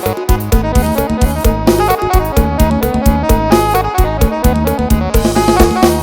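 Yamaha electronic keyboard playing fast Thai lam sing procession music: a melody over a steady, driving drum beat.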